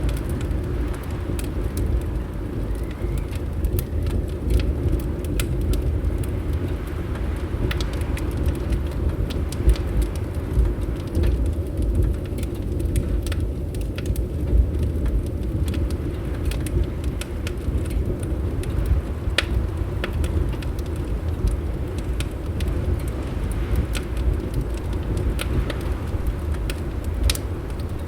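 Fireplace crackling, with scattered sharp pops over a steady low rumble of wind.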